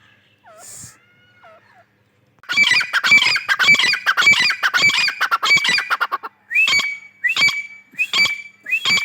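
Francolin (teetar) calling: a fast, harsh run of notes about two and a half seconds in, lasting some four seconds, then single high notes that each rise sharply and level off, repeated about every two-thirds of a second.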